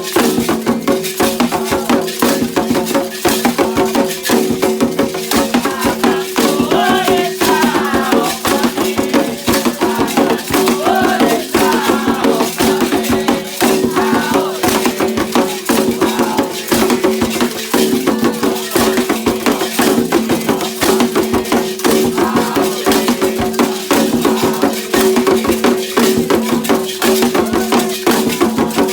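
Candomblé ritual percussion playing a fast, steady beat led by rattles, with voices briefly heard over it in the middle.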